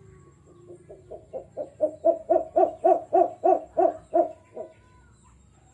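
Jujuk (tatapaian) bird calling a run of about fifteen low hoots at roughly four a second. The hoots start faint, swell to full strength, and stop abruptly.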